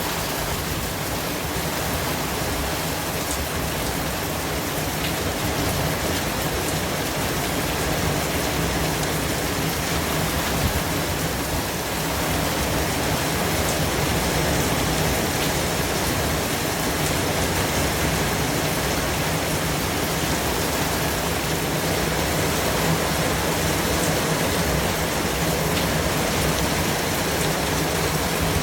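Steady white-noise hiss: an even rushing sound that holds level throughout, with a faint low hum beneath it.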